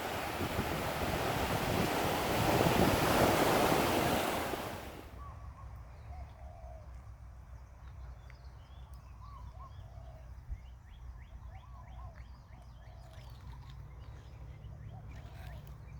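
Ocean surf washing in as a loud, steady rush that cuts off suddenly about five seconds in. After that come faint, scattered short bird calls over a low background rumble.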